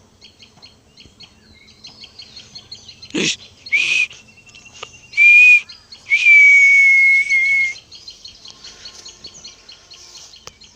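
Small birds chirping continuously, with a loud, steady whistled note sounded three times: two short whistles, then a longer one lasting about a second and a half. There is a single knock a little after three seconds in.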